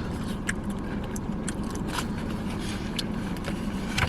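Steady low hum inside a car cabin, with a few short, sharp clicks and rustles from food packaging and a sauce cup being handled as food is dipped in the sauce.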